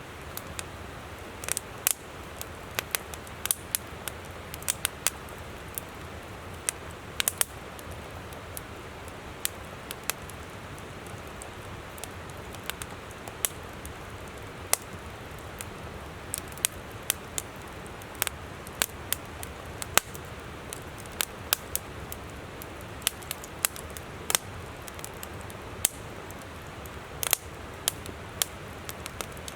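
Wood campfire crackling and popping in sharp irregular snaps, over the steady rush of a flowing river.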